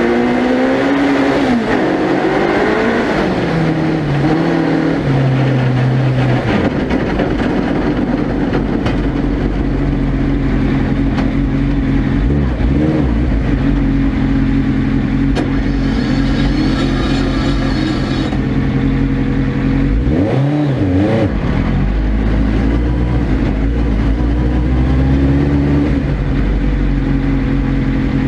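Suzuki Hayabusa 1300cc four-cylinder engine of a proto ice-racing car, heard onboard. It revs up and down for the first few seconds, then holds nearly steady revs, with a brief drop and pick-up about twenty seconds in.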